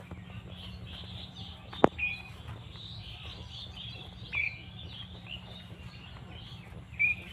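Birds chirping over a steady background of calls, with three short, clear chirps spread across the stretch. A single sharp click about two seconds in is the loudest sound, and a steady low hum runs underneath.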